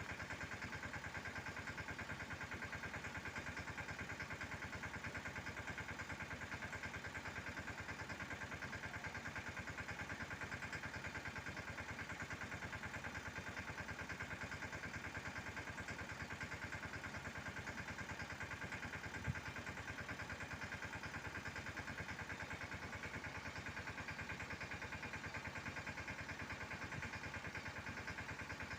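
Mahindra Yuvraj 215 mini tractor's single-cylinder diesel engine running steadily at an even speed, with one short knock about 19 seconds in.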